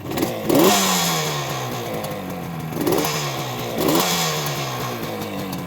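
1973 Yamaha RD350's air-cooled two-stroke twin, freshly cold-started, having its throttle blipped four times, each rev rising quickly and falling back to idle.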